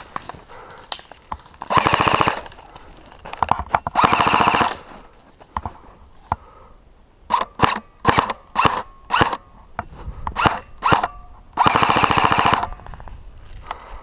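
Airsoft rifle firing on full auto: rapid bursts at about 2 and 4 seconds in and a longer burst near the end, with a string of short bursts and single shots in between.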